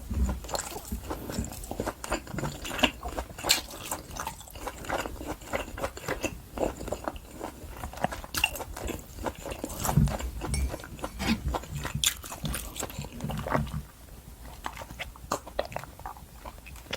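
Close-miked chewing of wagyu top blade steak, a dense run of irregular wet mouth clicks and smacks, quieter in the last few seconds.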